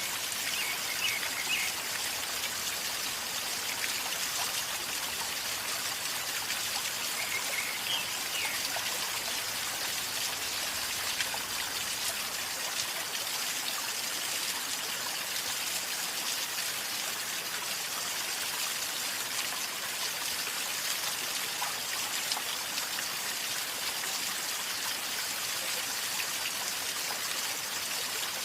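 A river flowing and gurgling steadily, a continuous even rush of water.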